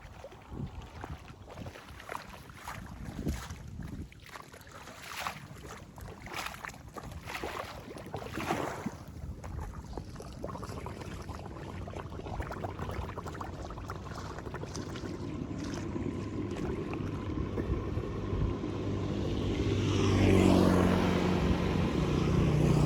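Wind buffeting the microphone over rushing water. From about two-thirds of the way in, an engine rises steadily in level as a vehicle comes closer.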